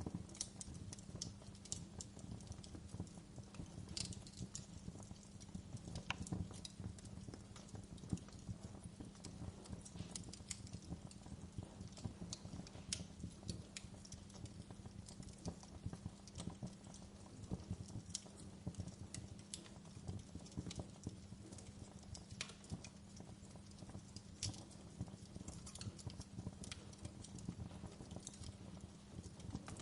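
Campfire burning: a steady low rumble of flames under irregular sharp crackles and pops from the burning wood.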